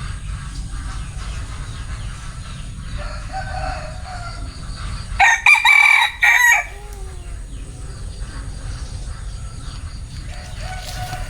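Bantam rooster (Vietnamese gà tre) crowing once, a loud crow of about a second and a half around the middle, with softer short calls before and after it. A steady low rumble runs underneath.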